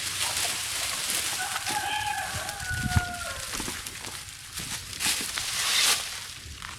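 A rooster crowing once, a call of nearly two seconds that holds its pitch and drops slightly at the end, over a steady rustling.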